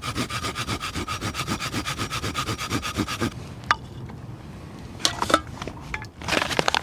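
Small hand saw cutting through willow wood in quick, even back-and-forth strokes, about six or seven a second, with a faint whine from the blade. The sawing stops about three seconds in, leaving a few light clicks and scrapes of handling the wood.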